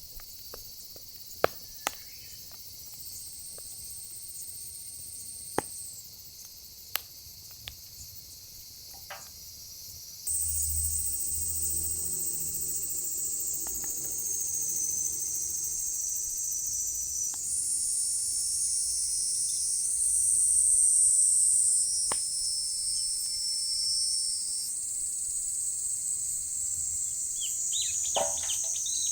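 Insects calling in a steady, high-pitched chorus that gets louder about ten seconds in, with sharp pops and cracks from firewood burning in the fire pit.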